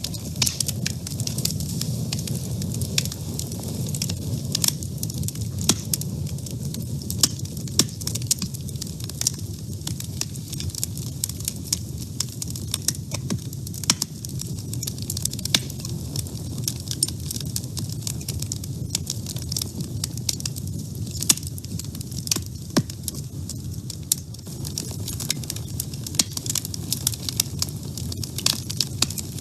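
Wood fire burning in a woodstove: a steady low rumble of the flames with frequent sharp, irregular crackles and pops from the burning logs.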